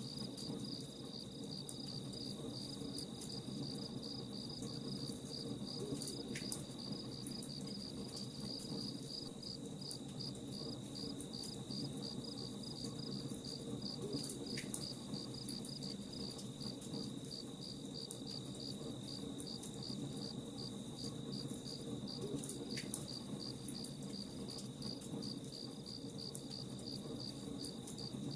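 Crickets chirping in a steady, evenly pulsed rhythm over a crackling campfire, with scattered sharp pops and snaps from the fire.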